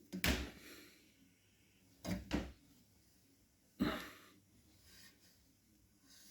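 A few sharp clunks, each fading out quickly: one just after the start, a quick double knock about two seconds in, and one more near four seconds, like a door or drawer being handled.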